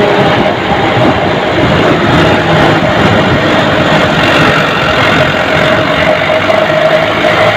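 Army truck engine running loudly, heard from aboard the moving truck, with steady road and wind noise and a constant drone.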